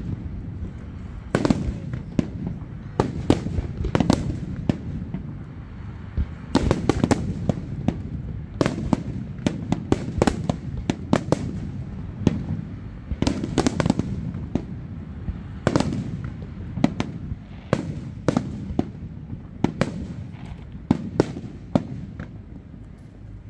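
Aerial fireworks display: shells bursting one after another in a rapid barrage of booms and sharp cracks, with a continuous low rumble between the bursts.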